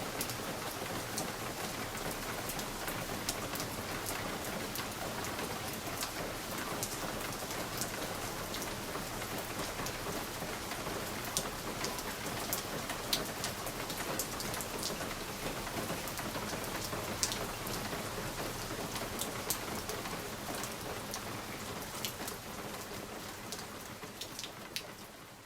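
Steady rain pattering on window glass, with single drops ticking sharply against the pane; it fades out gradually near the end.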